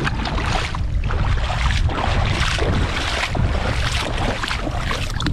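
Strong sea wind buffeting the microphone, a steady deep rumble with gusting hiss that rises and falls every second or so.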